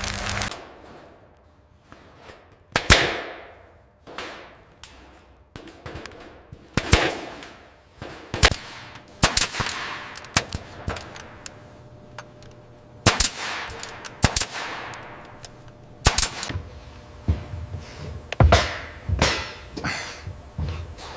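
Renovation work: a long irregular series of sharp knocks and clanks, some with a short ringing tail, spaced from a fraction of a second to a couple of seconds apart.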